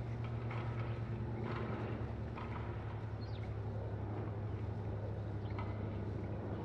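A steady low engine-like hum, with faint scattered short ticks and one brief high chirp about three seconds in.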